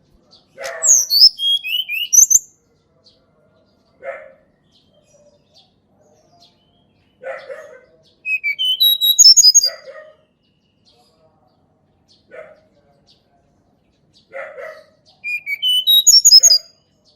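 A tledekan gunung singing three song phrases, each a quick run of high, clear whistled notes that step down or up in pitch over lower, rougher notes. Single short call notes fall between the phrases.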